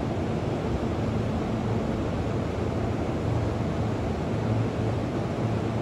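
Sotetsu 12000 series electric train pulling slowly out of the station: a steady low rumble.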